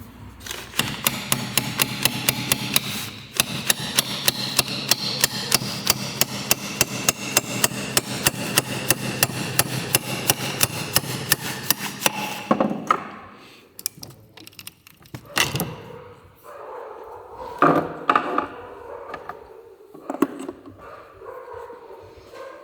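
Rapid, regular hammer blows on metal, about four a second, over a steady hum, stopping after about twelve seconds. A few separate knocks follow.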